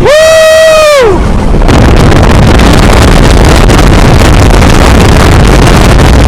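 Heavy wind rushing and buffeting over the microphone of a moving vehicle, loud and steady. It opens with a single loud high tone of about a second that bends down in pitch as it ends.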